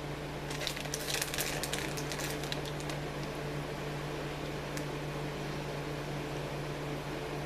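Crisp crinkling and rustling for about two seconds near the start, the sound of a candy bag being handled for a gummy bear, over a steady low electrical hum.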